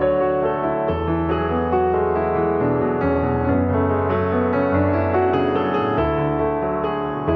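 Piano music, with low bass notes held and changing about every second under higher melody notes.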